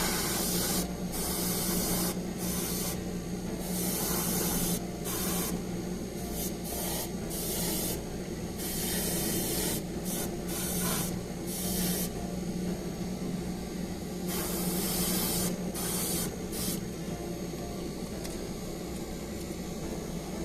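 Airbrush spraying model paint in about a dozen short hissing bursts, over a steady low hum; the spraying stops about three-quarters of the way through.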